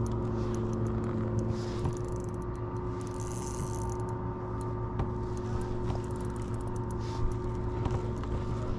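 Steady motor hum holding an even pitch, with scattered light clicks and rattles over it.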